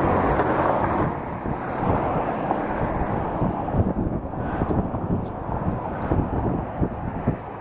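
Wind rushing over the microphone during a bicycle ride, with the low rumble and many small knocks of the bike rolling over the path.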